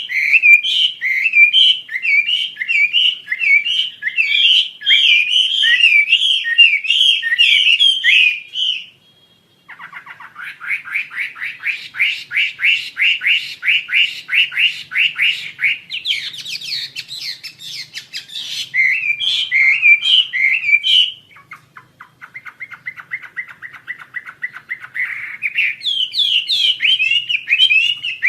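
Wambi Asia songbird singing: fast runs of repeated chirping notes. After a brief pause a little over nine seconds in, the song shifts to a rapid trill of quick downward notes. A quieter, faster trill follows around the three-quarter mark before loud chirping phrases return near the end.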